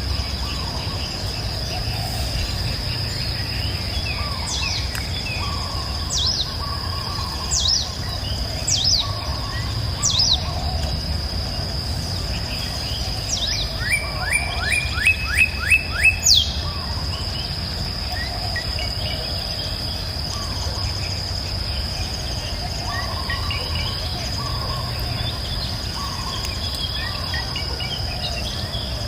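Wild birds singing: sharp falling whistled notes repeated every second or so, then a quick run of about five notes, with softer calls in the second half. Under them runs a steady high insect drone and a low steady rush of the river.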